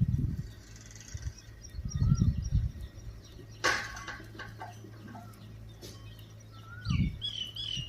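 Birds calling with a few short chirps, among several low thuds and one sharp crack a little past the middle, over a steady low hum.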